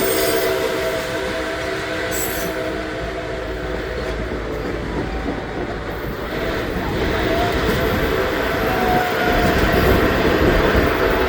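Nickel Plate Road 765 steam train: the tail of its chime whistle fading out in the first second or two, then the rumble and rail noise of the train running past, growing louder toward the end.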